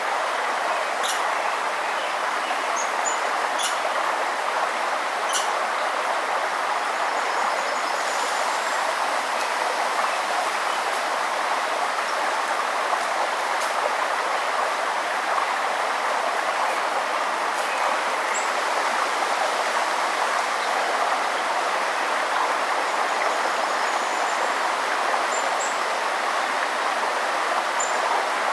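River water flowing steadily over rocks, a constant rushing. A few short, high bird chirps sound faintly over it now and then.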